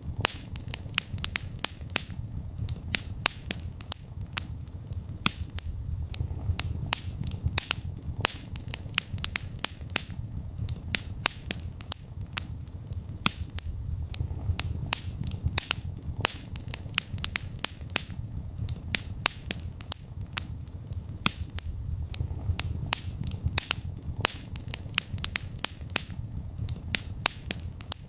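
Wood fire burning in a fireplace, crackling and popping with many sharp snaps several times a second over a steady low rumble of the flames.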